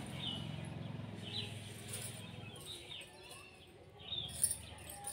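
A small bird chirping repeatedly: short, high, downward-sliding chirps about once a second. A low hum sits under the first couple of seconds, and there is a single sharp click near the end.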